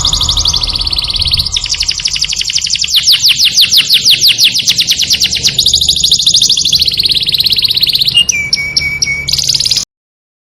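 A songbird singing a fast, loud series of trills, each a rapid run of repeated notes, switching to a new trill every second or two; the song cuts off abruptly near the end.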